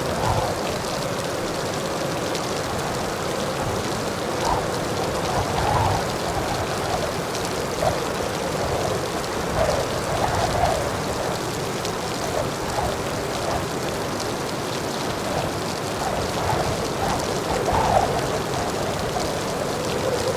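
Heavy rain falling steadily, with many scattered louder drops splashing through the constant hiss.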